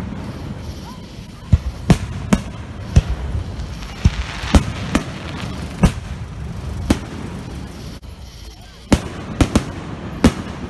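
Aerial firework shells bursting overhead: about a dozen sharp bangs at irregular intervals over a low rumble. There is a short hiss around the middle and a brief lull before a final cluster of bangs near the end.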